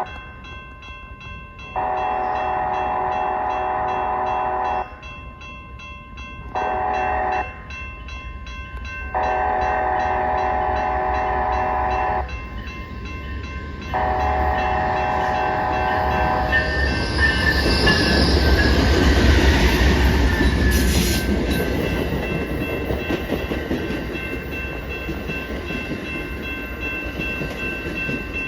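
Amtrak passenger train's multi-note locomotive horn sounding for a grade crossing: a long blast, a short one, then two more long blasts. The locomotives then pass with a swelling rumble and rush, and the cars roll by.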